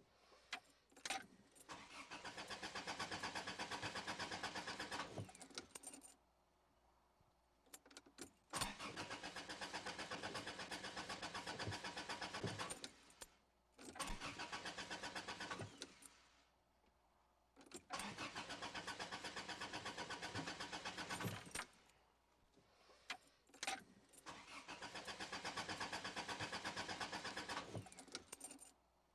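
A car's starter cranking the engine over in five separate attempts of a few seconds each, a rapid even chugging, with clicks of the ignition key between them. The engine never catches: a crank-but-no-start fault.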